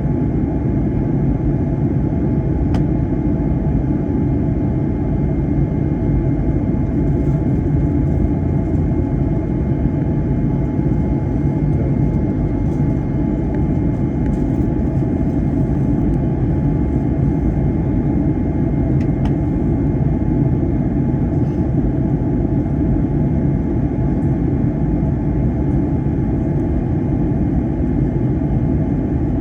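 Steady cabin noise inside an Airbus A321 airliner: a deep, even rumble of engines and airflow that does not change throughout.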